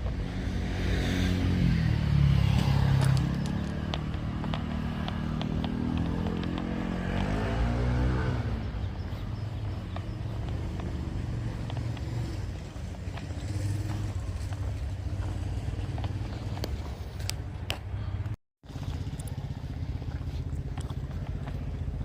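Motorcycle engines on a street, with two passes whose pitch rises and falls in the first eight seconds over a steady engine hum. The sound cuts out for a moment about eighteen seconds in.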